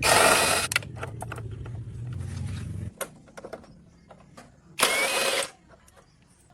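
A low engine hum that cuts off suddenly about three seconds in, with two short, loud hissing blasts, one at the start and one near the end, and scattered clicks and knocks.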